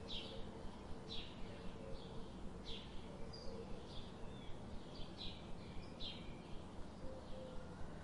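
Small birds chirping: short, high chirps, one every half second or so at uneven intervals, over steady background noise with a regular faint tick about three times a second.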